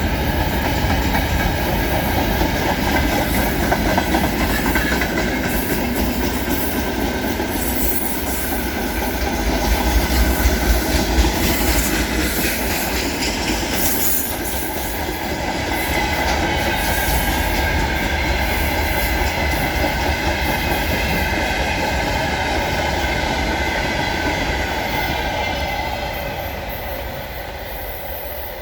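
Freight train wagons rolling past, their wheels clattering over the rail joints with a steady high squeal above the rumble; the sound fades near the end.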